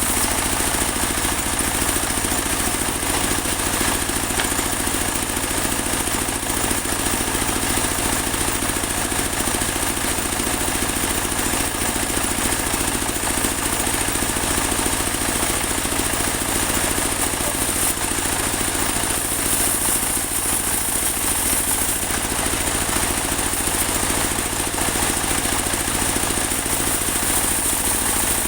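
Portable band sawmill running steadily: an even engine drone with a steady high whine over it.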